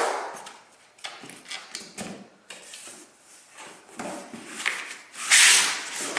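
Rummaging through a cardboard shipping box: packaging rustling and scraping in short bouts, with a louder rustle about five seconds in.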